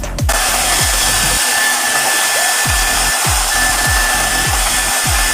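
GAABOR handheld hair dryer switched on about a third of a second in, then blowing steadily on its high-speed cool-air setting: an even rush of air with a thin steady whine over it.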